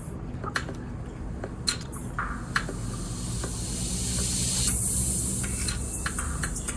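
Eating noises: sharp mouth clicks and chewing, with a high hiss that swells and fades about three to five seconds in.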